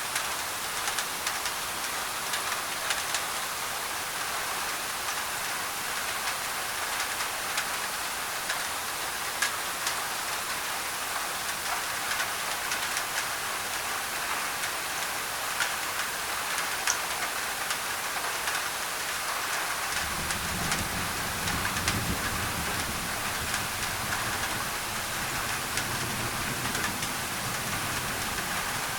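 Rain pattering steadily on a thin tin roof, with many small drop ticks over an even hiss of mixed-in white noise. A low rumble joins underneath about two-thirds of the way through.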